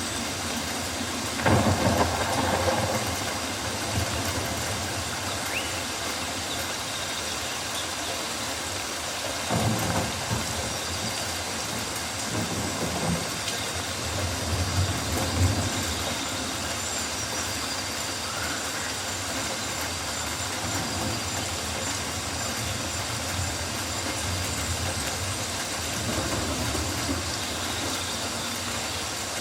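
Rainforest ambience: a steady hiss of rain and leaves, with a few louder low rumbles swelling up near the start, about a third in, and around halfway.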